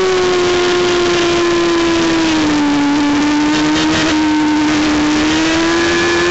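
High-revving race motorcycle engine at full song in fifth gear, heard from an onboard camera over heavy wind rush. About two and a half seconds in, the engine note drops as the rider eases off for a corner. It then holds and slowly climbs again as the bike drives out.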